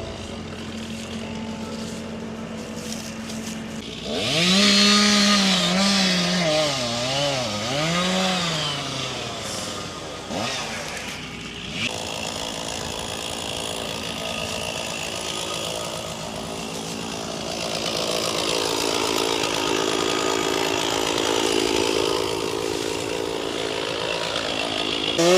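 Two-stroke chainsaw revving up and down a few times, then running steadily under load as it cuts into the trunk of an elm tree, louder again in the last few seconds.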